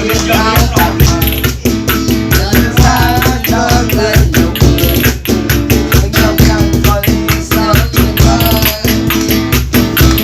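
Guitar music over a steady, even percussion beat, with a wavering melody line above the accompaniment.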